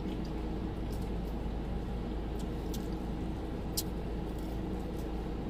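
Steady low rumble and hum of a car's running engine and air conditioning inside the cabin, with a few faint small clicks scattered through it.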